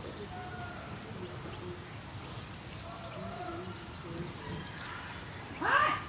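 Soft bird calls: short low notes and faint high chirps here and there, then a few loud, sharp calls close together near the end.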